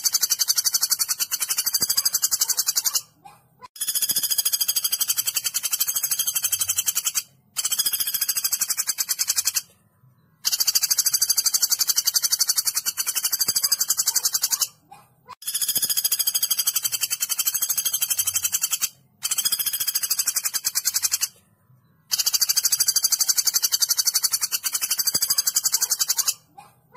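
A woodpecker's rapid, high-pitched rattling call, repeated in long bursts of three to four seconds with short pauses between, about seven bursts.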